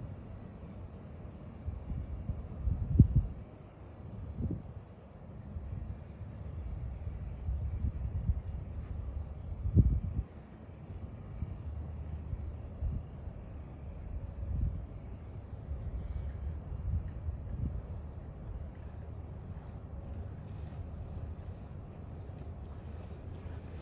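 A bird gives short, high chirps, repeating about once or twice a second, over a low outdoor rumble. The rumble carries two louder thumps, about three seconds and ten seconds in.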